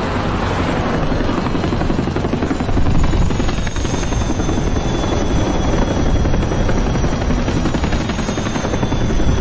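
Helicopter flying: a steady, rapid rotor chop with a faint high whine that drifts slightly lower in pitch.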